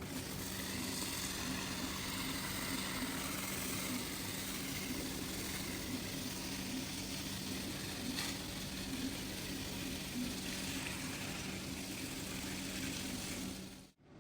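Rug-cleaning equipment running steadily: a continuous hiss of water spray over a motor's steady hum. It cuts off abruptly near the end.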